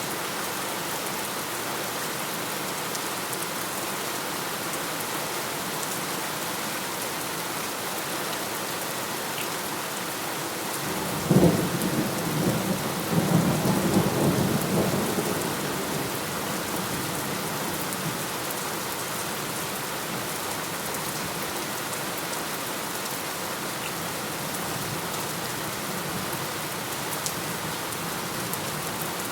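Steady rain falling, with a single thunderclap about 11 seconds in: a sharp crack followed by a deep rumble that dies away over about five seconds, then steady rain again.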